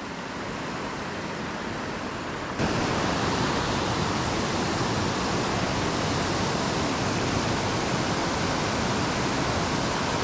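Rushing water of a small creek waterfall, a steady hiss that swells slightly and then jumps abruptly louder about two and a half seconds in.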